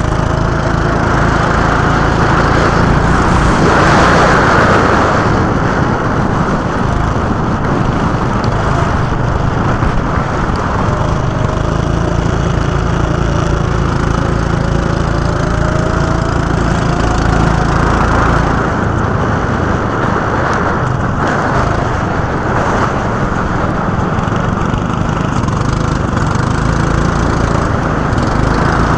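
Go-kart engine running at speed with a steady drone and road noise. Its pitch rises several times as the kart accelerates out of corners.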